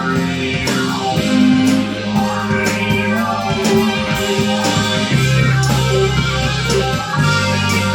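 Live band playing rock music: guitar over held bass notes, with drums keeping a steady beat.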